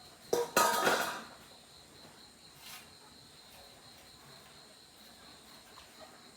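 A brief clatter of knocks about half a second in, then a steady high-pitched insect drone, typical of crickets.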